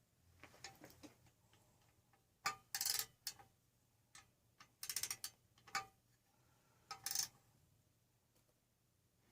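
Metal parts and hand tools clinking and clicking as a Briggs & Stratton small engine is reassembled: scattered light ticks, with short bursts of metal-on-metal clatter about two and a half, five and seven seconds in.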